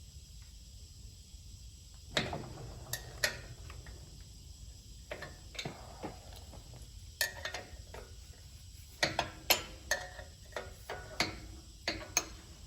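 Scattered metallic clinks and knocks of hand tools and parts being handled, at irregular intervals, with the loudest knocks about two seconds in and again around nine to ten seconds in.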